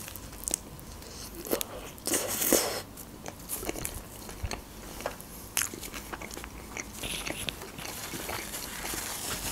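Close-miked biting and chewing of a shawarma wrap: a bite at the start, then chewing with crunches and sharp mouth clicks, the densest crunching about two seconds in.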